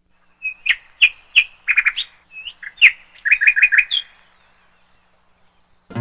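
A bird chirping: a string of short, high chirps, some in quick runs of three or four.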